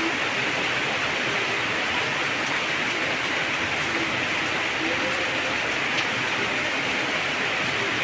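Heavy rain falling steadily, an even, dense hiss of downpour.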